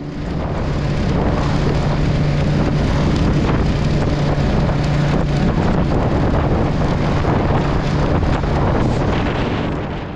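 Wind buffeting the microphone of a moving motorcycle, with the engine's steady low hum underneath.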